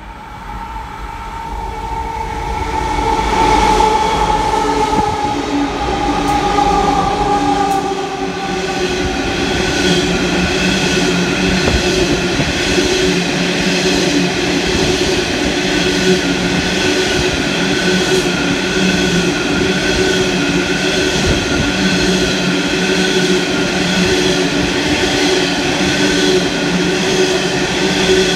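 Freight train of coal hopper wagons running through a station at speed: a steady rolling rumble with a rhythmic clatter of wheels over the rails. A ringing tone sounds in the first few seconds as it comes in and grows louder.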